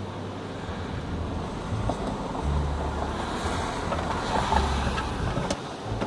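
Car cabin noise: a steady rumbling hiss with deep bass notes of music from the car stereo.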